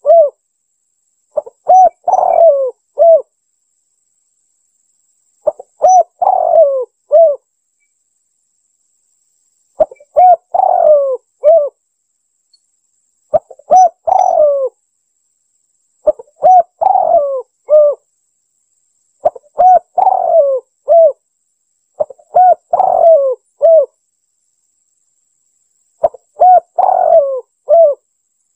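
Spotted dove cooing as a bird-trapping lure call: phrases of several round coo notes, one phrase every three to four seconds with silence between.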